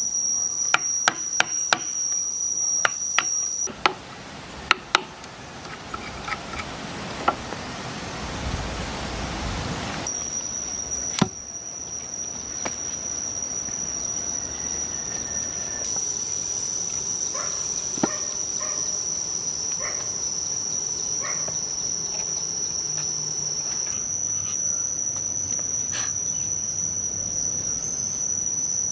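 Crickets' steady high trill with sharp knocks of hand work on wood, a quick run of them at the start and scattered single knocks later. Partway through the trill drops out for a few seconds under a rising rushing noise.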